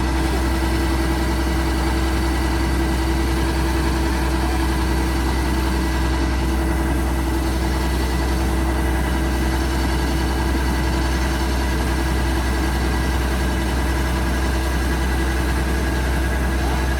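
A large engine running steadily at constant speed: a low rumble with a steady whine over it, unchanging throughout.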